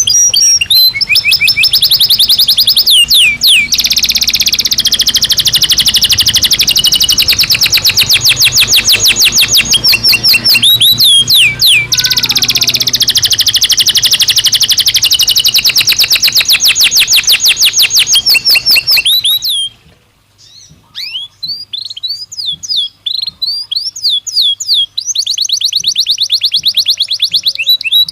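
Belgian canary singing long, fast trills of rapidly repeated high notes, with a few downward-sliding notes among them. The song breaks off briefly about twenty seconds in, continues with scattered chirps, and the fast trills return near the end.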